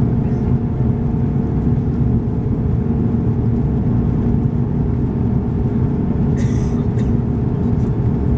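Steady cabin roar of an Airbus A340-300's four CFM56 turbofan engines and airflow, heard from an economy window seat, with a constant low hum and a few steady tones. About six and a half seconds in, a brief higher-pitched rustle or hiss rises above it.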